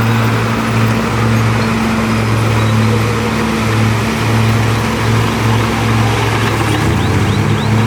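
Heavy diesel engine of earthmoving machinery running under load, a steady low drone that pulses as the load changes.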